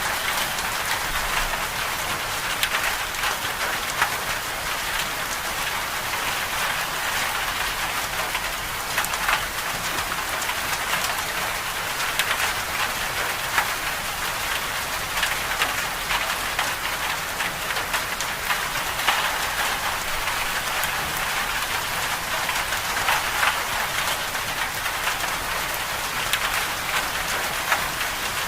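Steady storm precipitation pattering on a surface: a continuous hiss made of dense small ticks of drops striking, with no thunder or voices.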